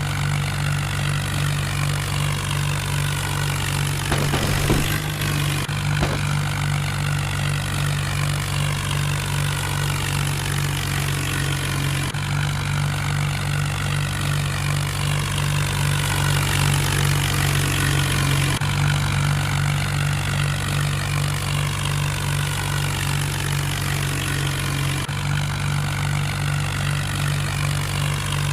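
Mahindra tractor's diesel engine running steadily under a constant load, with a couple of brief knocks about four to six seconds in.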